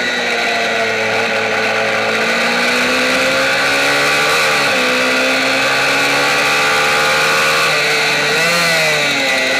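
Mini racing motorcycle engine heard from a camera mounted on the bike, running hard at high revs with its pitch climbing slowly, dipping briefly about four and a half seconds in and again about eight and a half seconds in before climbing again.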